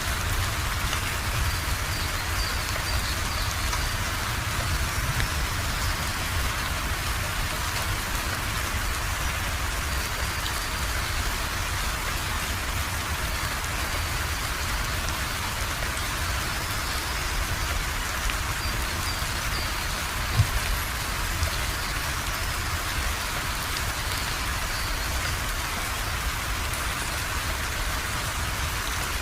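Steady rain falling, a dense even patter, with one sharp tap about twenty seconds in.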